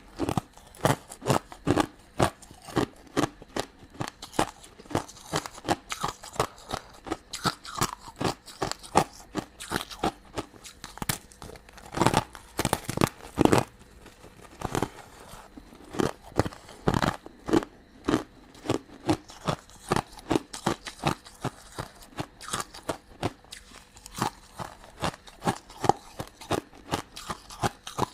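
Close-miked eating: rapid, irregular crunching and chewing of sugary crystal candy, several sharp crunches a second with occasional louder bites.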